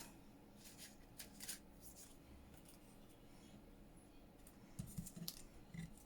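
Faint rustling and small clicks of paper and fabric strips being handled, in two short spells: about a second in and near the end.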